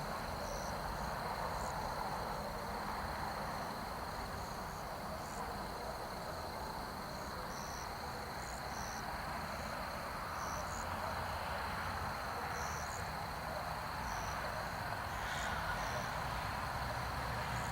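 Night insects, crickets among them, singing: a steady high trill with short, higher chirps repeating every second or so, over a steady low rush of background noise.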